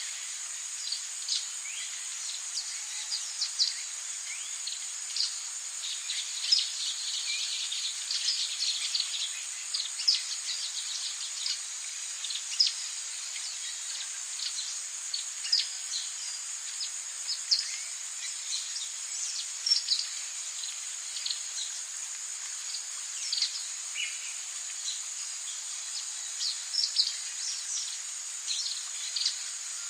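Rainforest ambience: a steady high insect drone with many short bird chirps and calls scattered throughout.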